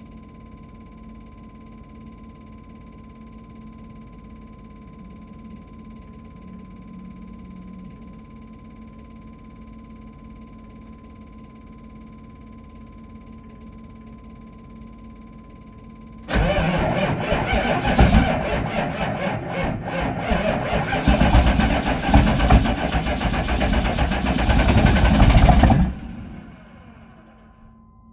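A quiet steady hum for about sixteen seconds. Then the 6.5-litre diesel V8 of a 1998 GMC 3500 cranks over hard in −35 °C cold for about ten seconds before cutting off suddenly: a cold-start attempt.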